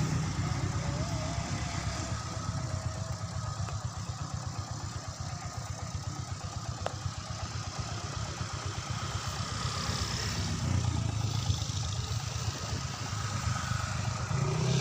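Motor vehicle engines running, a low rumble that eases off and swells again about ten seconds in.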